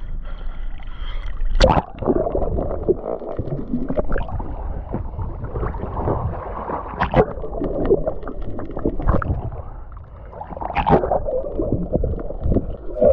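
Water sloshing and gurgling close to the microphone, with sharp knocks or splashes about 2, 7 and 11 seconds in.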